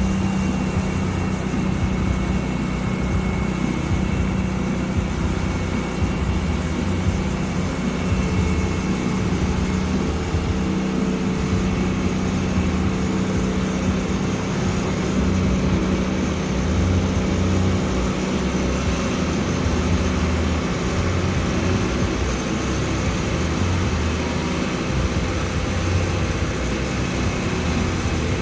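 Sawmill engine running steadily under power, a constant hum over an uneven low throb.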